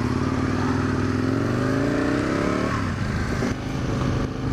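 A 2005 Aprilia RSV Tuono's V-twin engine under way, its pitch rising steadily as the bike accelerates, then falling abruptly a little over halfway through and running on at a lower, steadier pitch.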